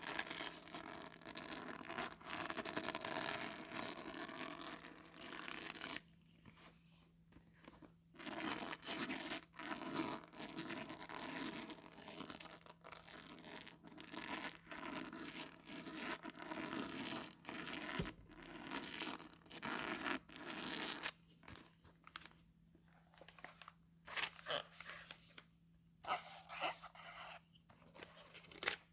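Comb teeth scratched and dragged across a sheet of calendar paper in quick repeated strokes, a dry rasping, crackling scrape, with two short pauses where it nearly stops.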